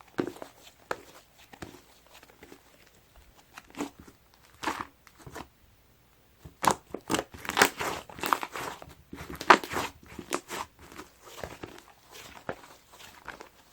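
Slime mixed with soft modelling clay being squeezed and poked by hand, giving irregular crackles and small pops. After a brief lull about six seconds in, the crackles come thicker and louder for a few seconds.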